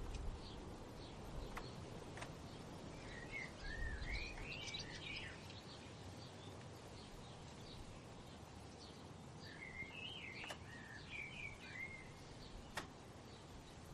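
A songbird singing two warbling phrases, about four and ten seconds in, over faint repeated high chirps and a low, steady outdoor background. A few short sharp clicks.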